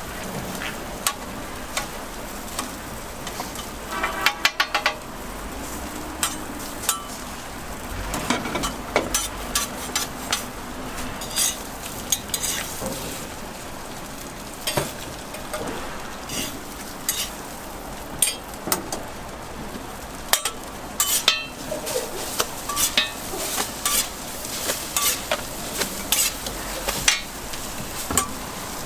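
Food sizzling on a street-toast griddle, with repeated sharp clacks and scrapes of metal utensils and a quick run of taps about four seconds in.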